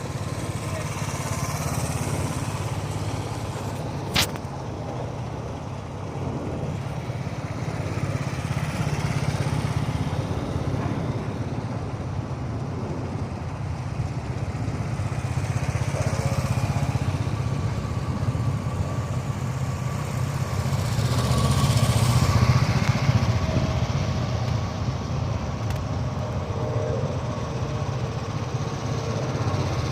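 Motorcycle engines running steadily, swelling and fading as the bikes come closer and move away, loudest about two-thirds of the way through. A single sharp click about four seconds in.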